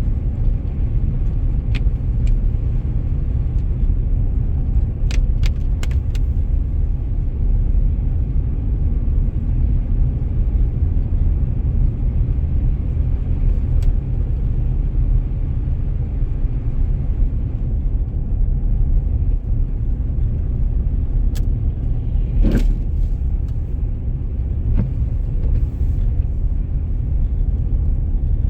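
Car being driven on snowy roads: a steady low rumble of road and engine noise, with a few scattered sharp clicks and knocks, the loudest about two-thirds of the way through.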